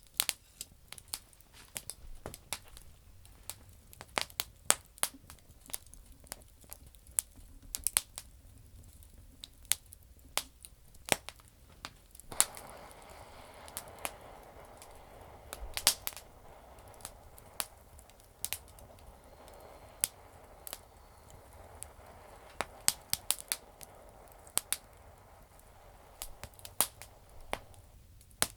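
Campfire burning damp firewood, crackling with frequent sharp, irregular pops. A steady hiss joins the crackle about twelve seconds in and stops shortly before the end.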